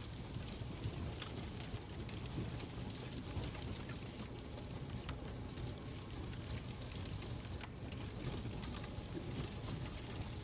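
Fireplace ambience: a steady low rumble of fire with irregular small crackles and clicks throughout.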